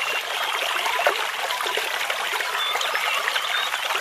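A small spring brook trickling and babbling steadily over stones.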